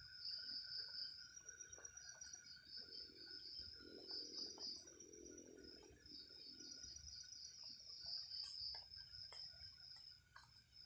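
Night insects calling faintly: a pulsed high-pitched trill that comes in phrases of a second or few, over a steady thin drone from another insect. A faint low murmur rises and fades in the middle.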